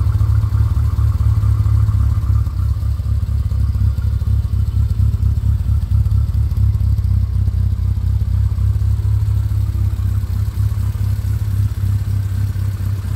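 1968 Morris Mini Cooper S's A-series four-cylinder engine idling steadily with a low, even throb, warmed up after a couple of minutes of ticking over, with the choke pushed fully in.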